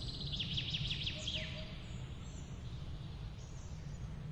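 Small birds chirping in quick rapid runs, mostly in the first second and a half, over a steady low rumble of outdoor background noise. A soft, low three-note call sounds once about a second in.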